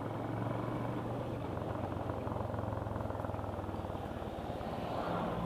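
A vehicle's engine running steadily at a low, even pitch, with a continuous hum and no change in revs.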